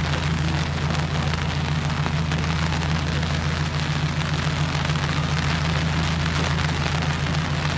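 Steady rain falling, with a continuous hiss of drops, over the low, even hum of an idling van engine.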